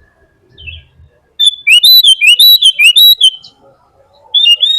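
A bird singing close up: a run of quick, repeated slurred notes lasting about two seconds, then a shorter phrase near the end.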